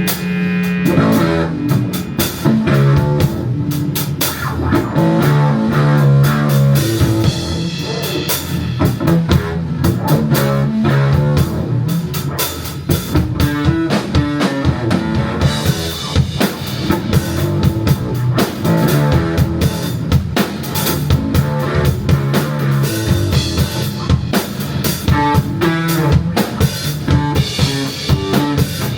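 A live psychedelic rock band playing an instrumental passage, with a drum kit beating a steady rhythm under electric guitar.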